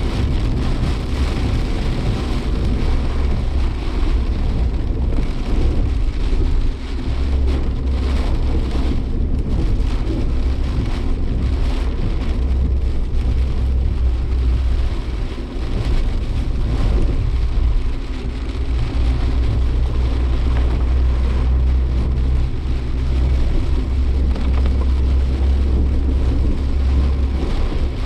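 Cabin noise of a Suzuki Jimny Sierra driving in heavy typhoon rain. There is a steady low engine and road rumble, with rain pattering on the body throughout.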